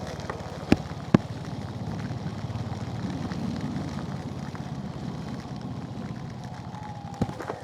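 Royal Enfield Hunter 350's single-cylinder engine running on the move, with an even beat of exhaust pulses and road and wind noise. Two sharp knocks come about a second in.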